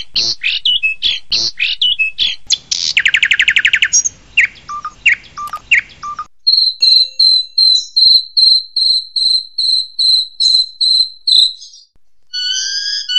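Long-tailed shrike (cendet) singing a mimicry-filled song. It opens with rapid sharp calls and a buzzy trill, then gives a steady series of short, high whistled notes about three a second. Near the end a different, lower repeated phrase begins.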